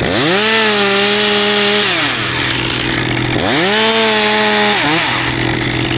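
Chainsaw revved up to full throttle twice, each burst held about a second and a half and dropping back to idle in between: the two cuts of a step cut in a limb.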